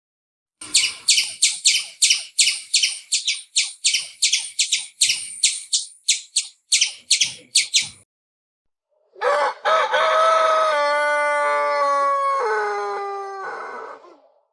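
Bird calls: a quick run of about twenty sharp, high chirps, then after a short pause one long crow of about five seconds that drops in pitch in steps.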